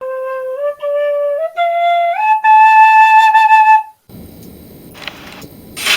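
Intro music: a short flute melody of several notes stepping upward, the last one held, ending suddenly about four seconds in. A faint rustling background with a few light clicks follows.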